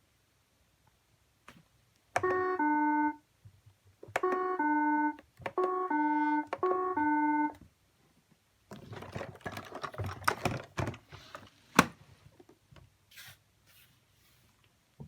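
iRobot Roomba 692 robot vacuum playing its electronic beep melody, short synth-like tone phrases that step down in pitch, three times, signalling that its battery has run out before it reached its charging base. After that comes a few seconds of irregular clattering and scraping with one sharp click.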